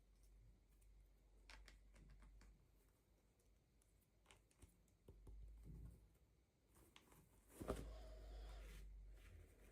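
Faint scattered clicks and light taps from handling small plastic toy pieces and packaging, with one louder knock a little before the end.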